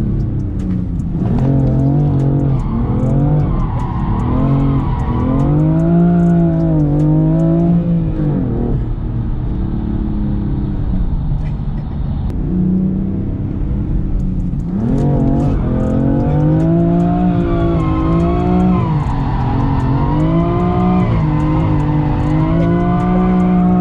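BMW M4 Competition F82's twin-turbo straight-six engine under hard driving, its revs rising and falling again and again, with a steadier, lower stretch of cruising from about 8 to 14 seconds in.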